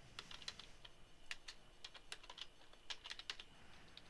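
Computer keyboard typing: a quiet, irregular run of key clicks as a terminal command is entered.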